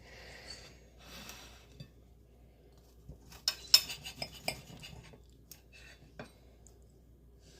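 A plate and utensils clinking against a table: a quick cluster of sharp clinks about three to four and a half seconds in, then a couple of faint taps.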